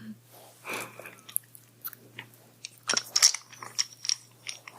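Close-microphone ASMR sounds of a carved wooden massage stick pressed and rubbed against the microphone: crisp clicks and short scratches, busiest about three seconds in.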